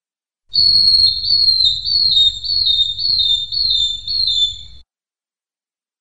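Long-tailed broadbill singing: a run of seven high, clear whistled notes, each sliding slightly down in pitch, nearly two a second. The run starts about half a second in and stops abruptly, over a faint low rumble.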